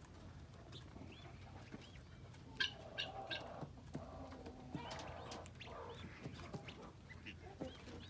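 A bird eating seed: sharp clicks of its beak pecking and cracking seed, loudest as a quick cluster about three seconds in, among short faint chirps and soft low calls.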